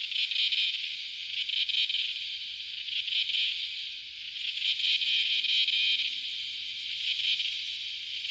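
Cicadas calling: a continuous high, shrill buzz that swells and fades in waves about every second or so.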